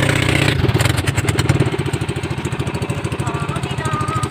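Pump boat's inboard engine running steadily, a fast even chugging.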